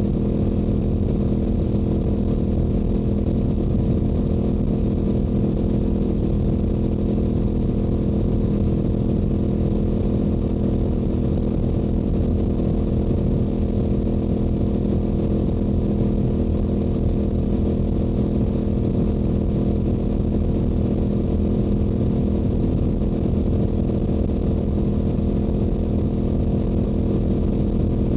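Yamaha YZF-R7's stock 689 cc parallel-twin engine and exhaust running at a steady highway cruise, its note holding one even pitch with no change in throttle.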